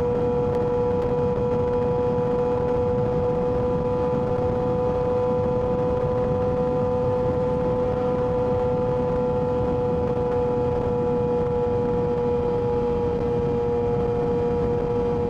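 Yamaha R6 inline-four engine running at a steady throttle while riding, a held high engine note that rises slightly and eases off near the end, over a steady rushing noise.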